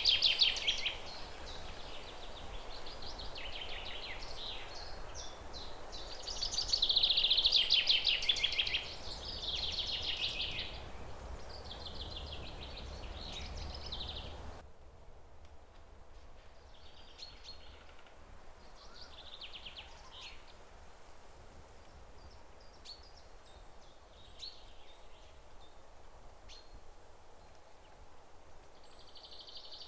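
Songbirds singing in fast trills and chirps, over a low background rush. About halfway the background drops out suddenly, and the songs that follow are fainter and more scattered.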